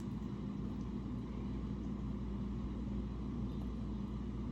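Steady low mechanical hum and rumble with a faint steady tone, unchanging throughout.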